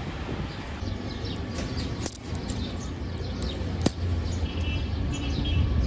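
Birds chirping in short, falling calls over steady low background noise, with two sharp clicks, about two seconds and four seconds in.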